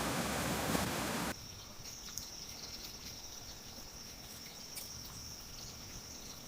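A steady rushing noise that cuts off abruptly about a second in, giving way to the steady, high-pitched, one-tone buzz of insects such as crickets, with a few faint clicks.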